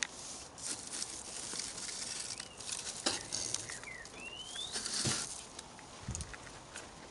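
Dry rustling and crackling with scattered sharp clicks. Three short rising chirps come in the middle, the last and longest just before a louder rustle.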